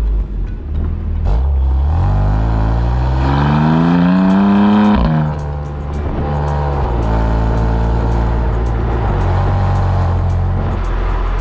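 BMW M2 CS twin-turbo inline-six engine and exhaust revving up steadily for about three seconds, then dropping back sharply about five seconds in and running on at lower revs. It is held well short of high revs because the engine is still being run in.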